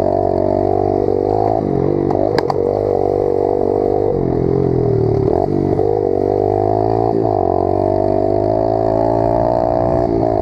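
Pit bike's small single-cylinder engine running hard at a steady high pitch, the revs dipping and climbing again a few times as the throttle is eased and reopened.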